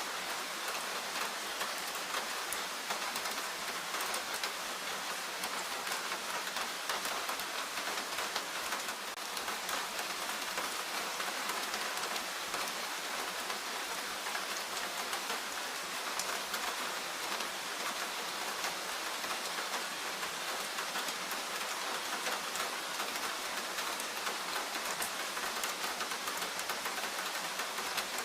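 Steady rain falling in the forest: an even hiss made up of a dense patter of individual drops, holding constant without letting up.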